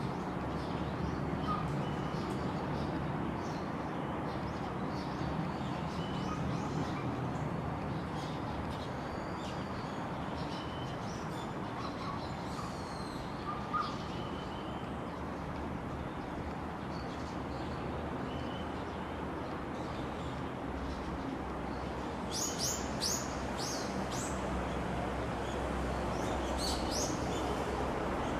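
Small birds chirping and twittering over a steady low background rumble, with a brief cluster of louder chirps about three-quarters of the way through.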